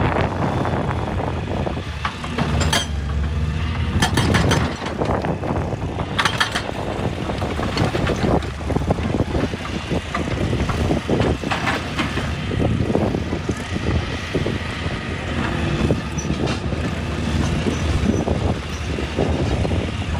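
Excavator's diesel engine running steadily, with clanks and scrapes every few seconds as the machine works.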